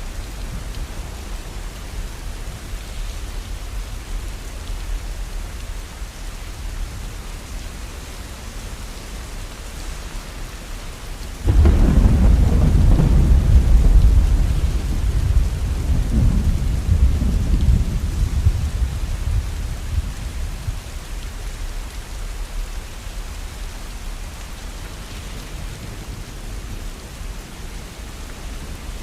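Steady rain, with a sudden loud low rumble of thunder about eleven seconds in that rolls on in surges for several seconds before dying away.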